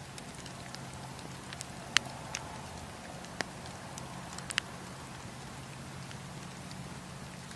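Wood campfire crackling: scattered sharp pops and snaps over a steady low rumble, the loudest pop about two seconds in.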